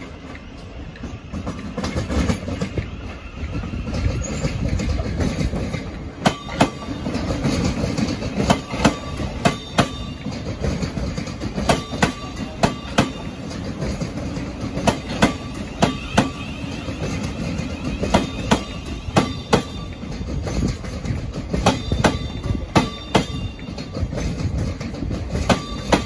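Thameslink Class 700 electric multiple unit passing slowly at close range: a low rumble, with its wheels clicking sharply over rail joints and points, often in quick pairs, once it draws level.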